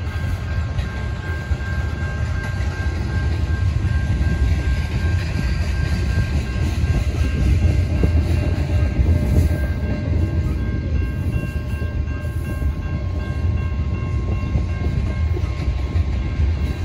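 A freight train of tank cars rolling past close by: a steady low rumble of steel wheels on the rails, a little louder in the middle, with a thin steady high tone running over it.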